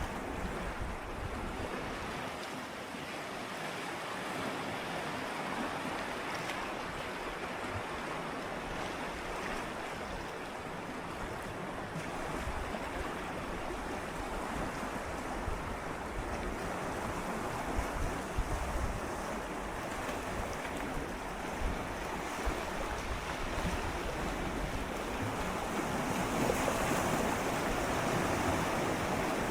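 Gentle sea waves swirling and lapping against shoreline rocks: a steady wash of water with soft swells, building slightly louder near the end.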